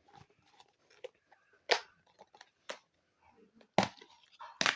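Floam (slime packed with foam beads) being handled and squished: scattered crackling clicks with a few louder sharp snaps.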